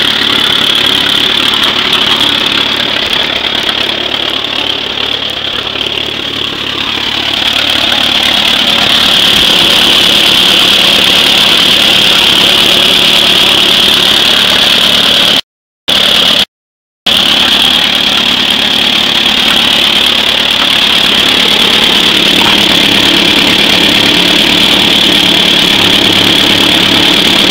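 1937 Allis-Chalmers tractor engine running steadily with its gas supply shut off. The sound dips a little about six seconds in, then holds steady, and cuts out completely twice for a split second a little past the middle.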